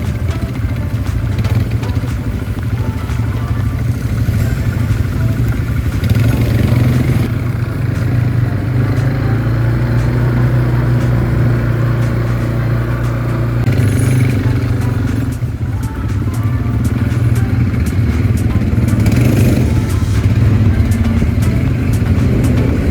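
Engine of an automatic ATV running while it is ridden, loud and steady, its pitch shifting now and then as the throttle changes.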